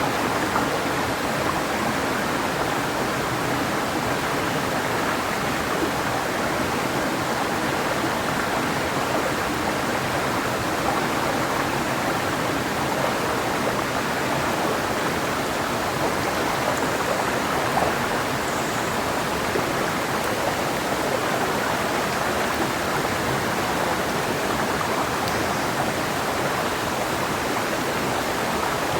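Clear mountain river stream flowing over rocks: a steady, even rushing of water.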